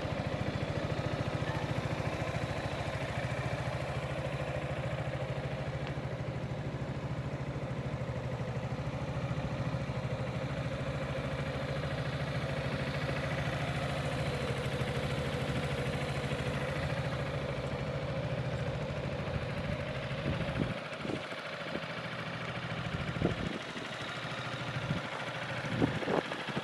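Yamaha XMAX 300 scooter's single-cylinder engine idling steadily, then stopping about 20 seconds in, followed by scattered clicks and knocks.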